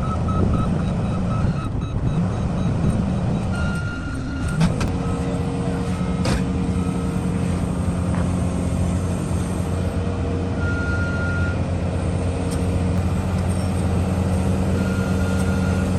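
Heavy diesel engine running steadily at a constant pitch, with a few short high beeps of a travel or reversing alarm sounding now and then.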